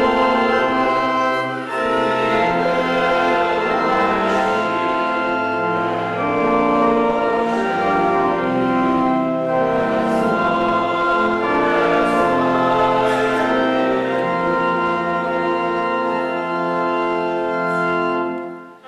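A choir singing a hymn with organ accompaniment, in sustained chords; the music breaks off just before the end.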